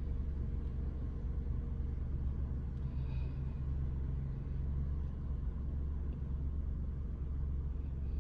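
Car engine idling while the car stands still, a steady low rumble heard from inside the cabin.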